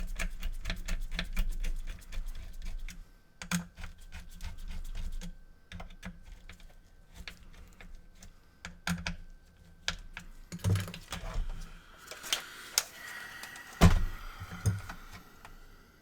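Rapid light clicking for the first few seconds, then scattered knocks and a brief scrape of small hard parts being handled, with a sharp thump near the end.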